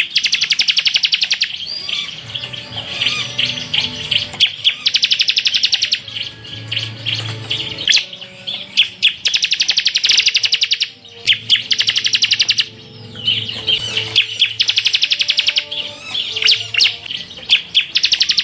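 Bar-winged prinia (ciblek semi) singing: chattering chirps broken by bursts of very rapid, evenly pulsed trills, the 'tembakan' ('shots'), each lasting about a second and coming every four to five seconds.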